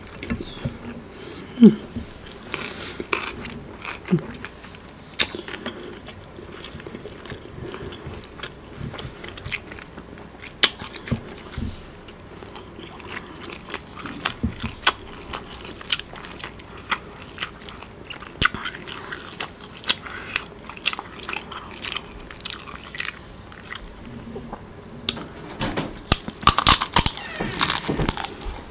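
Close-miked mouth sounds of eating: wet chewing with short crunches and clicks throughout. Near the end comes a louder run of crackly crunching as she bites into a crispy fried wonton.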